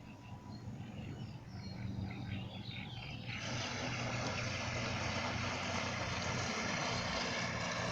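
Radio-controlled fishing bait boat's small motors running with a steady hum. About three seconds in, a loud rushing hiss suddenly joins and carries on.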